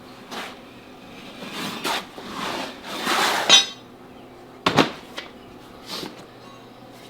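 Steel tire-iron work on a backhoe wheel rim: a few scraping strokes build up to a ringing metal clank about three and a half seconds in, followed by two sharp knocks.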